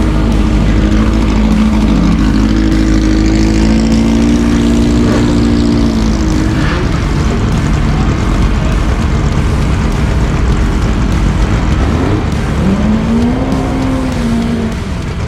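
Volkswagen drag cars at full throttle, engine pitch rising as they accelerate down the strip over the first several seconds. A second engine rises and falls in pitch about twelve seconds in.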